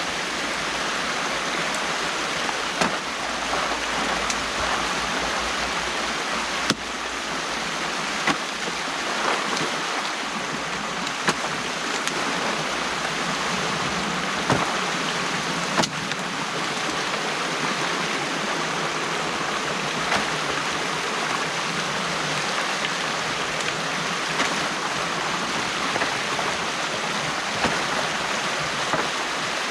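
Stream water rushing steadily through a breach in a beaver dam being dug out by hand, with short sharp knocks or splashes every few seconds.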